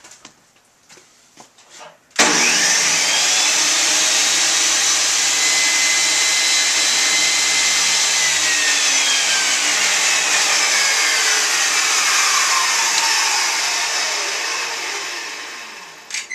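Electric motor machine switched on with a sudden start, running loud and steady for about ten seconds, then switched off and winding down with a falling whine over the last few seconds.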